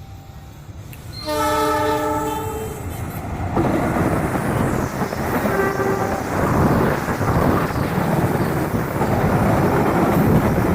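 CC206 diesel-electric locomotive sounding its multi-tone horn in a long blast about a second in, then a shorter blast a few seconds later, as it starts off with the Argo Wilis train. The diesel engine and the wheels clattering on the rails grow loud and stay loud through the rest.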